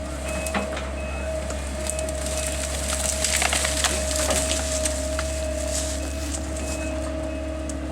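Wood cracking and splintering in a run of sharp cracks, thickest about three to four seconds in, as a tree is broken up by machine, over the steady drone and whine of the running equipment.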